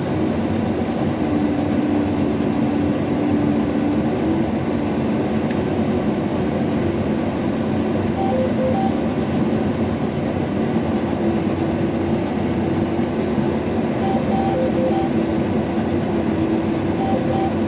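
John Deere combine running under load in thick wheat, a steady engine and threshing drone. Its pitch sags a little about a second in and recovers around four seconds in as the heavy crop bogs the engine down. A few short beeps sound around the middle and near the end.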